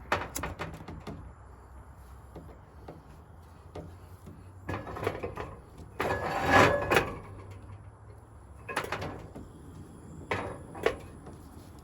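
Objects being handled by hand: a few knocks and clicks, then louder rustling or scraping bursts, the loudest a little past the middle. A low steady hum of distant road traffic sits underneath.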